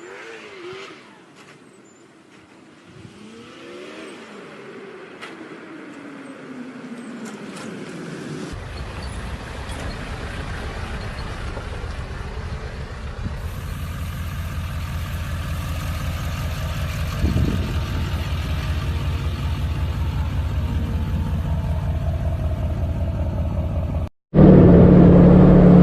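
A truck engine running: faint at first, then from about a third of the way in a low, even rumble that grows steadily louder. Near the end it breaks off for a moment and a louder, steady engine drone takes over.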